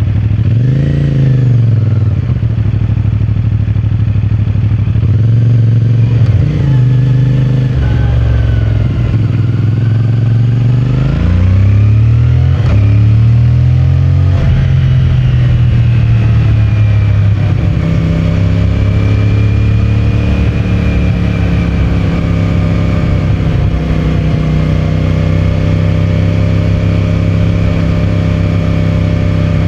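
CFMOTO 450MT motorcycle's parallel-twin engine with its stock exhaust, under way on the road. Its revs rise and fall through several gear changes in the first half, then settle to a steady cruise with small rises and dips.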